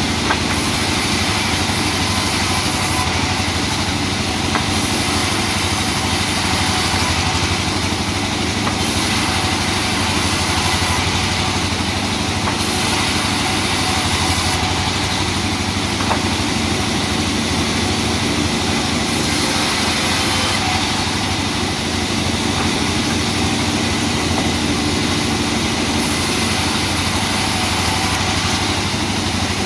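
Sawmill machinery running steadily: a continuous engine drone with no breaks or change in pitch.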